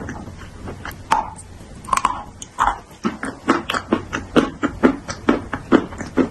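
Crisp slate pieces being bitten and chewed close up. A few separate crunches come in the first seconds, then a fast, even run of chewing at about four crunches a second.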